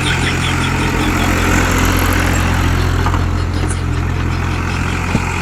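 Massey Ferguson 385 tractor's diesel engine running at a steady, even speed.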